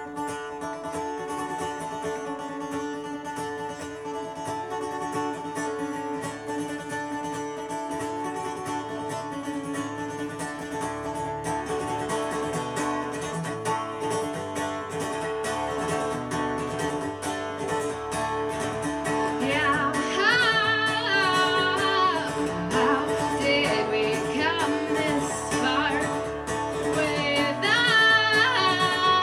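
Live acoustic guitar music: a steady played guitar part, with a woman's singing voice coming in about two-thirds of the way through and again near the end.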